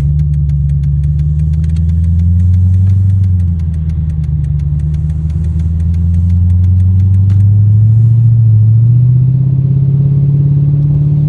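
Mercedes-Benz CL500's 5.0-litre V8 running with no exhaust fitted (straight-pipe): a loud, deep, steady idle drone whose pitch rises slightly about eight seconds in.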